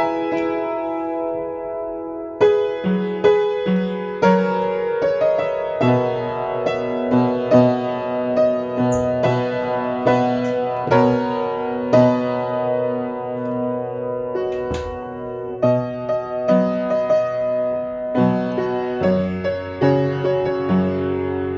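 Solo piano playing a slow piece: struck melody notes over sustained chords that ring and fade, with low bass notes coming in.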